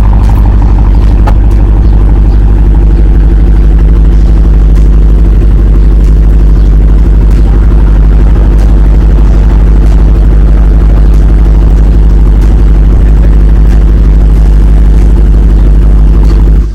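Dodge Hellcat's supercharged 6.2-litre HEMI V8 idling steadily through a mid-muffler-delete exhaust, pretty loud.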